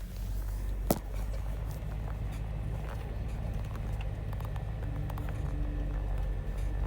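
Pickup truck engine running with a steady low rumble, with a single sharp click about a second in.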